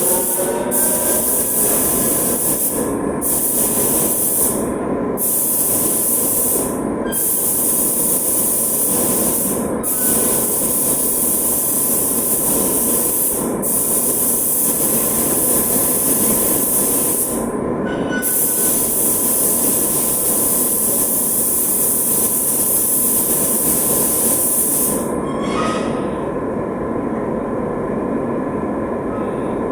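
Spray gun hissing with compressed air in long passes, cut off briefly by releases of the trigger every few seconds, then stopping about 25 seconds in. A steady machine-like hum runs underneath throughout.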